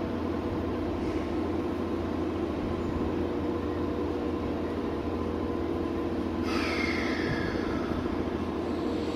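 Toei 10-300R series electric train standing at the platform with its doors shut, its onboard equipment giving a steady hum. About six and a half seconds in, a hiss of released air starts on top of the hum.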